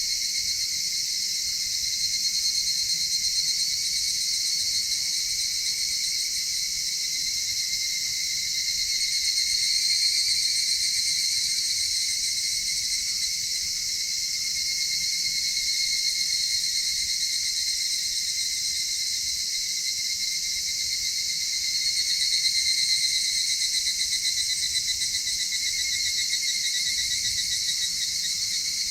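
Dense chorus of insects trilling continuously, several overlapping high-pitched steady songs layered at different pitches, swelling slightly twice.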